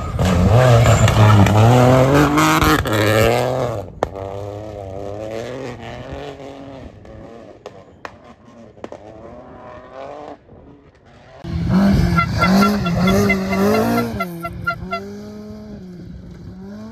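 Rally cars passing at full power, one after another. The first is loud for about four seconds, its engine pitch climbing and dropping through gear changes, then fades into the distance. A second arrives loud about eleven and a half seconds in, revving hard through its gears before it too fades.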